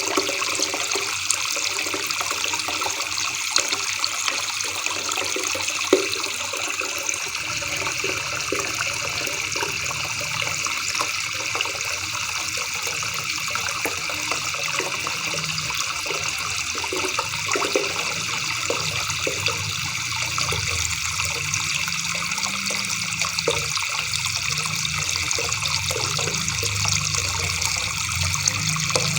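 River water babbling and gurgling steadily over stones, with small scattered plops and splashes. A low rumble joins about seven seconds in.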